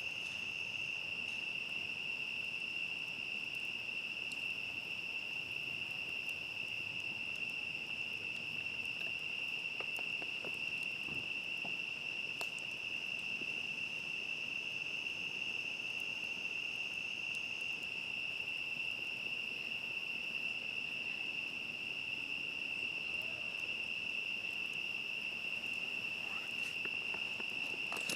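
Steady, continuous chorus of crickets trilling at one high pitch, with a second, higher trill that drops out about two-thirds of the way through. Faint scattered pops from a crackling campfire sit underneath.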